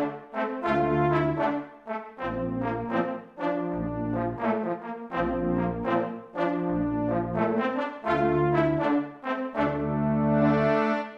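Ensoniq TS-10 synthesizer playing a brass-like patch: a rhythmic bass line of notes about a second long under shorter chords and melody notes.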